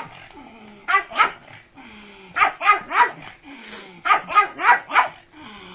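A dog barking in quick runs: two barks about a second in, four a little later, then about five more.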